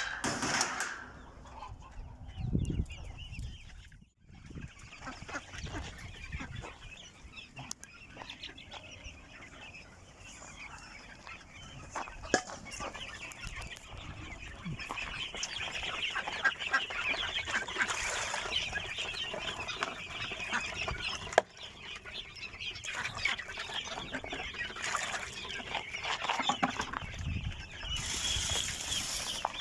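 Free-range desi chickens clucking as a flock, with many short calls overlapping. The calls grow thicker about halfway through.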